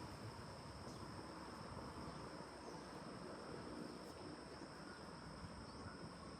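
Forest insects droning steadily in two high, unbroken tones, over a faint, even hiss.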